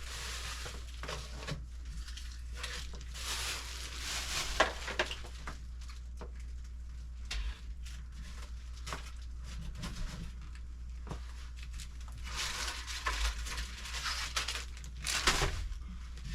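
Food packaging being handled in a pantry: plastic and paper bags and boxes rustling and crinkling in several stretches, with a few sharp knocks of items being set down.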